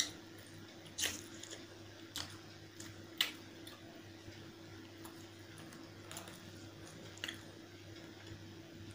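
Close-miked eating sounds: wet chewing and biting of chicken curry and rice, with a few sharp smacking clicks, the loudest about a second and three seconds in, over a faint steady hum.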